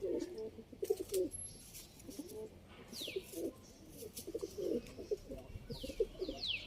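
Domestic pigeons cooing over and over in low warbling calls, with a few short high chirps that fall in pitch, about three seconds in and near the end.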